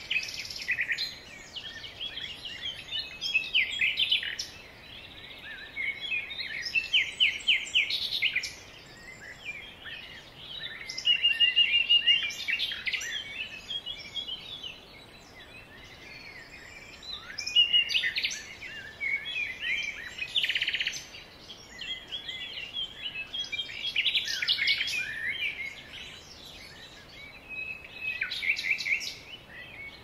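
Several forest birds singing and calling over one another in bouts, with quick trilled phrases among them.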